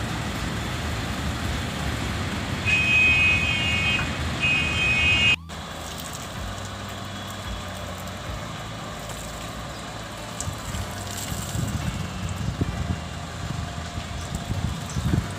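Steady vehicle rumble with two horn blasts, the second shorter than the first. About five seconds in the sound cuts off abruptly to a quieter rumble with occasional knocks.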